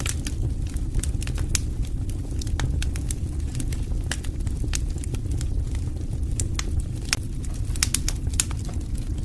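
Wood fire crackling: irregular sharp pops and snaps from burning logs over a steady low rumble of flames, with a quick run of pops near the end.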